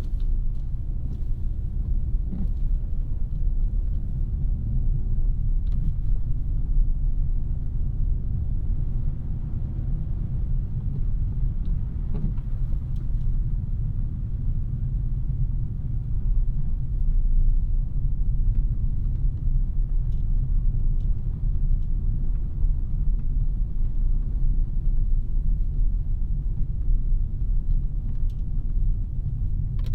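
Steady low rumble of a 2017 Audi A3 with a 2.0-liter turbocharged four-cylinder being driven: engine and road noise at a constant level.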